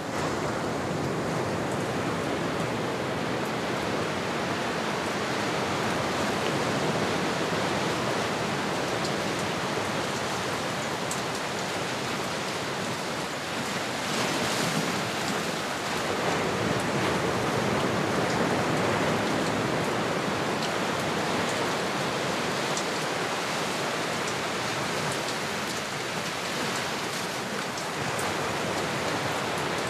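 Ocean surf: a steady rush of waves that swells and eases slowly, louder in the middle stretch.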